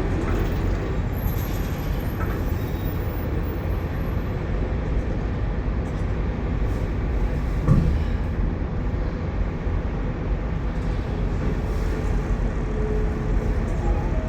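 Steady low rumble of heavy truck engines idling, with one short knock a little past halfway.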